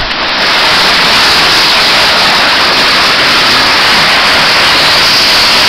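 Heavy hail storm: hailstones pelting down in a loud, steady hiss.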